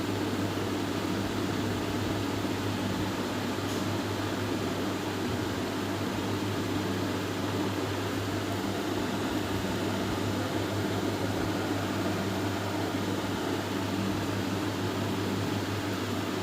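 Steady mechanical hum and hiss with a low, even drone, unchanging throughout.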